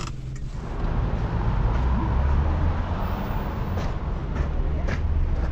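A steady low rumble with a noisy hiss over it, getting louder about half a second in.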